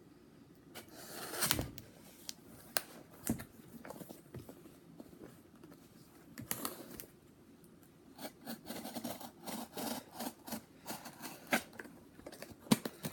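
A cardboard shipping box being cut open with a knife and handled: irregular scrapes, rustles and taps, with a louder scrape about a second and a half in and denser rustling and tapping in the second half.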